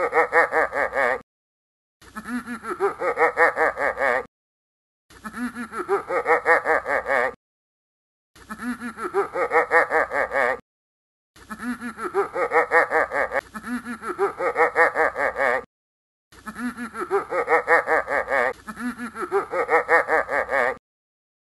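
The same cartoon laugh sound effect played over and over: a rapid ha-ha-ha laugh, about four or five pulses a second, each burst lasting about two seconds and separated by short silences.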